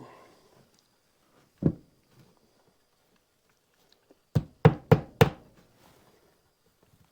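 Hammer striking wood: a single knock, then about three seconds later four quick blows, about three a second.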